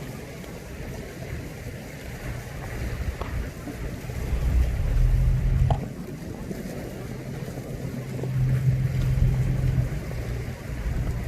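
Wind buffeting the microphone in uneven gusts, with a faint wash of sea surf behind it and a small click about six seconds in.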